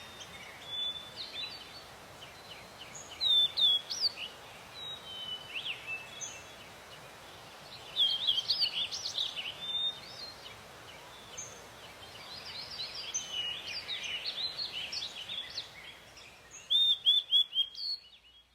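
Steady rush of a babbling stream with songbirds chirping and singing over it, their calls coming in clusters, with a loud run of four quick notes near the end before the sound fades out.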